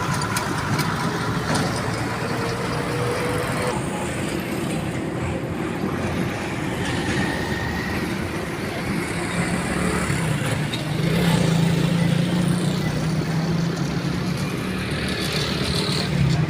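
Truck engine running steadily amid road traffic noise, growing louder from about eleven seconds in.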